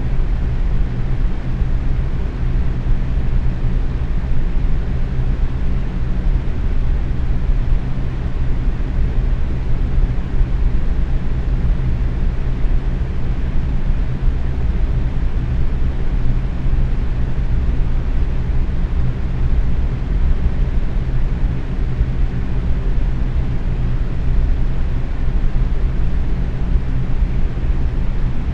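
Box fan running steadily at medium speed: an even, low whooshing rush of moving air with a faint motor hum, unchanging throughout.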